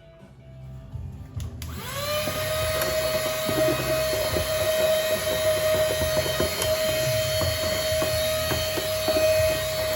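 An electric motor starts about a second and a half in, spins up quickly to a steady high whine and keeps running, with irregular knocks and scrapes under it.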